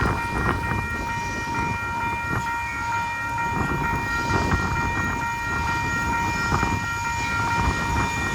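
A locomotive horn holds one long, steady chord over the rumble of a passing train. Wind buffets the microphone.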